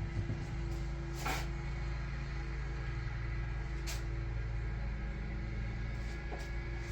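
Steady background hum in a workshop, with a couple of faint clicks and taps as a camshaft seal is worked into a 2JZ cylinder head.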